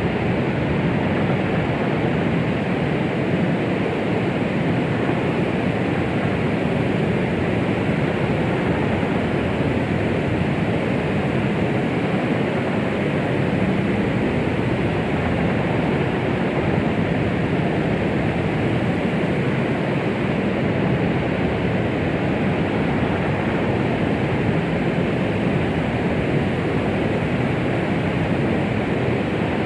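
Womb-sound white noise for calming a baby: a steady, muffled rushing hiss, deeper than a bright hiss, with no rhythm or change in level.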